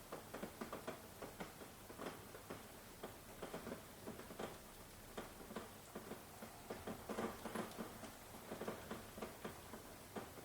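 Rain pattering as many separate, irregularly spaced drops over a light hiss.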